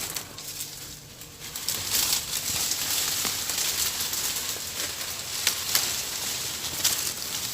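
Leaves and branches rustling and twigs crackling as someone pushes through dense undergrowth on foot, with a few sharp snaps late on.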